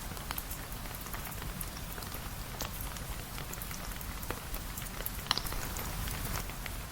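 Steady rain falling, with many scattered drops ticking sharply on a surface and one brighter tick about five seconds in.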